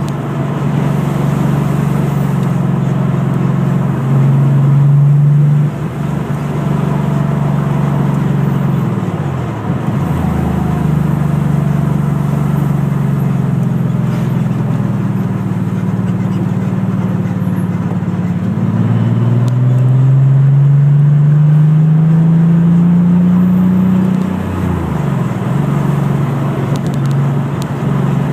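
Car engine running while driving. Its pitch falls about ten seconds in, climbs steadily for about five seconds near the end, then drops suddenly, with road and wind noise throughout.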